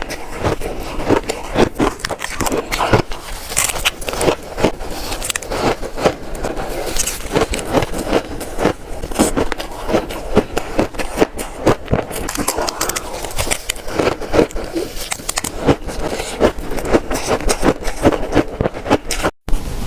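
Shaved ice being bitten and crunched, a dense, continuous run of crackling crunches that breaks off for an instant near the end.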